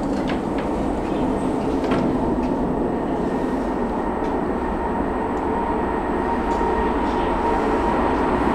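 Rumble of a train in the underground station's tunnel, steady and slowly growing louder, with a thin steady whine that firms up in the second half.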